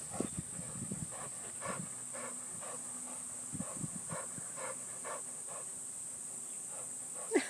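A dog panting in an even rhythm, about two breaths a second, over a steady high-pitched hiss.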